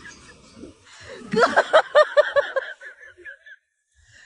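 Person laughing in a quick run of "ha-ha" pulses, about five a second, starting about a second in and trailing off before the end.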